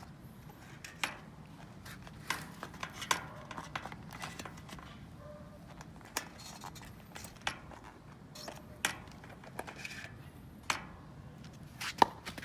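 Scattered light clicks and clinks of small hard objects being handled, at irregular intervals, with a sharper knock about twelve seconds in.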